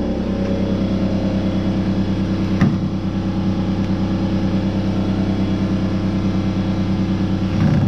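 A steady, pulsing mechanical drone from a running motor, with one sharp click about two and a half seconds in.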